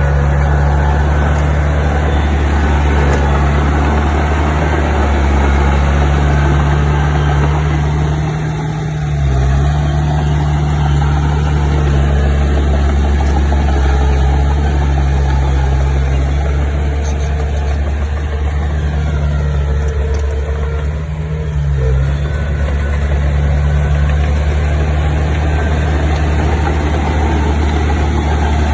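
Diesel engine of heavy construction equipment running steadily, dipping briefly twice: about a third of the way in and about three-quarters of the way in.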